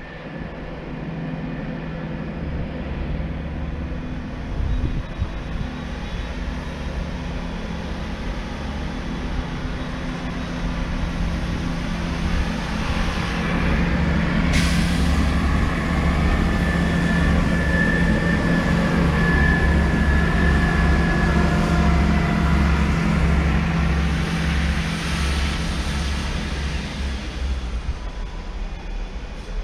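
Diesel train engine running steadily, its drone growing louder about halfway through. A short burst of air hiss comes partway in, then a high, steady metallic squeal for a few seconds.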